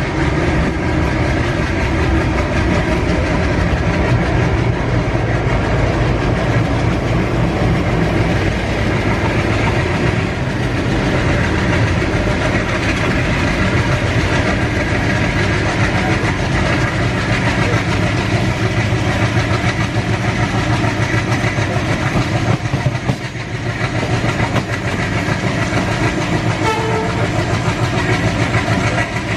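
Train passing close by at speed: a loud, steady rumble and rattle of wheels on the track, with steady tones running through it.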